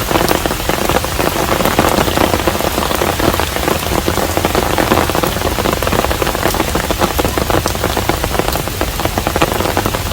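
Steady rain falling around a hanok, a traditional Korean house, with many separate drops heard as small ticks through the even hiss.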